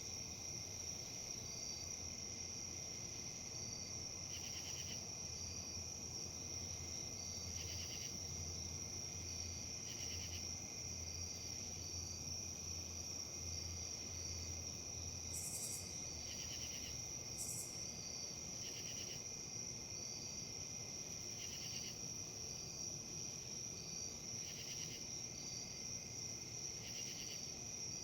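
Insects calling: a steady high-pitched trill, with shorter chirps repeating about once a second and a pulsing buzz every two to three seconds.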